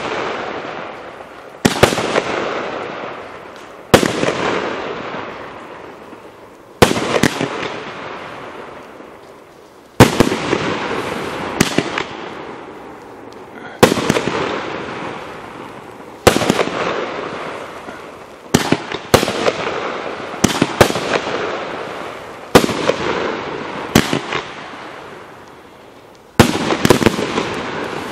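A 21-shot fireworks cake firing its shells one after another: each a sharp bang followed by a fading rushing tail, roughly every two to three seconds, coming faster near the end with a cluster of quick bangs.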